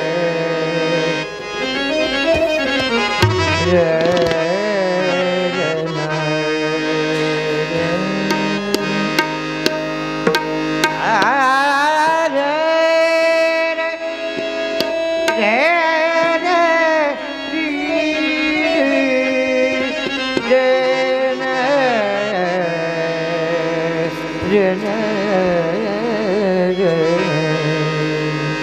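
Bhajan music: a singer's wordless, ornamented vocal lines with one long held note near the middle, over a steady harmonium drone, with tabla strokes keeping time.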